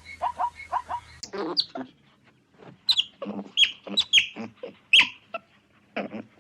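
Animal calls: a quick run of short, evenly spaced yelping notes, about five a second, that stops a little over a second in. Then a different animal sounds: sharp, high calls that drop steeply in pitch, several to a second, over lower chattering.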